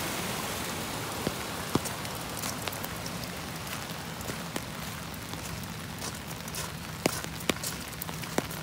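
Steady patter of rain, with scattered sharp ticks of individual drops landing close to the microphone.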